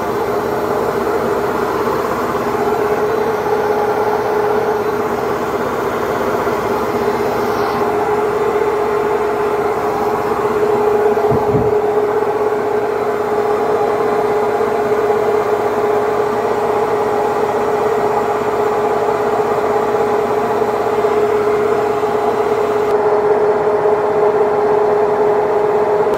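Haier HW60-10636A washing machine running steadily: a constant motor whine over an even mechanical rumble, with a brief low thump about eleven seconds in.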